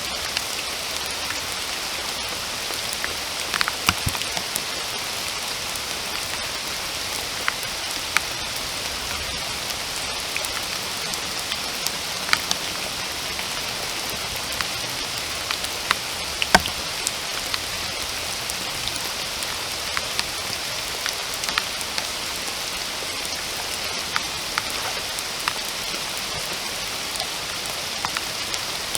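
Steady rain: an even hiss with scattered sharp drop hits close by, the sharpest about sixteen seconds in.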